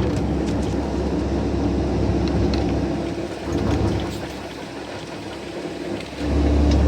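CAT excavator's diesel engine running, with a steady low hum and a wash of noise over it; the level sags for a couple of seconds and then the engine comes back up strongly about six seconds in.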